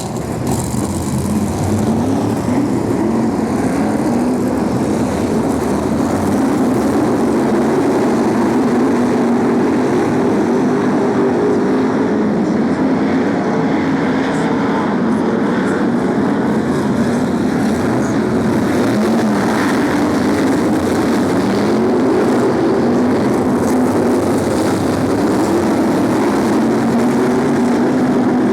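A pack of BriSCA F1 stock cars racing, their V8 engines running hard together, the engine notes rising and falling as the cars lap the oval and pass by.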